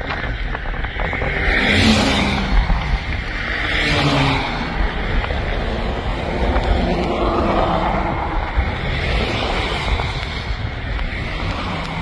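Strong storm wind rushing and buffeting the microphone in swelling gusts, over a steady low rumble.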